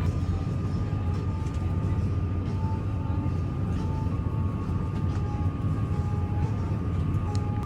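Airliner cabin noise: a steady low rumble with a thin steady high tone above it.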